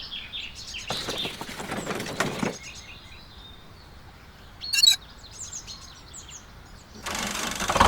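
Small birds chirping, short high chirps repeating throughout, with a brief louder noise burst about five seconds in. A low steady hum comes back in near the end.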